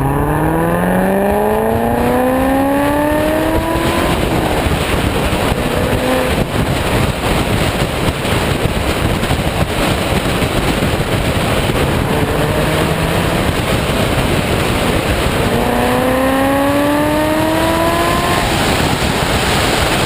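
2005 Corvette C6's LS2 V8 through Kooks long-tube headers and a Corsa cat-back exhaust, heard at the tailpipes under hard acceleration. The pitch climbs with the revs and breaks off at a shift about four seconds in, then climbs again near the end and breaks off once more. In between, a loud rushing noise fills the gap.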